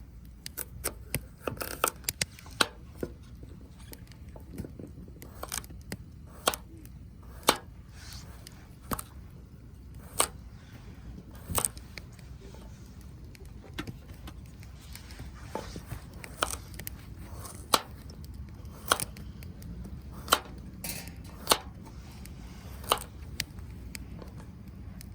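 A series of sharp knocks or taps, irregular at first and then coming about every second and a half.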